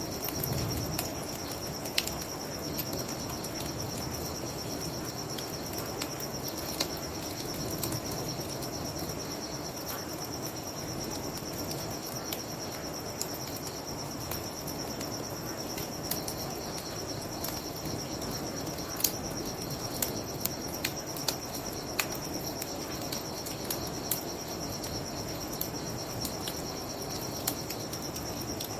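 Crickets chirping in a steady high trill, with the sharp, scattered pops of a crackling bonfire over a low, even rush.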